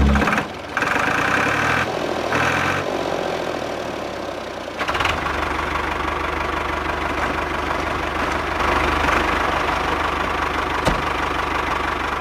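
Small electric motor of a homemade model machine running, a steady mechanical buzz and rattle. It shifts a few times in the first five seconds, then runs evenly.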